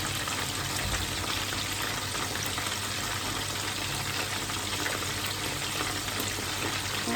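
Chicken pieces frying in hot oil in a pan: a steady sizzle full of fine crackles.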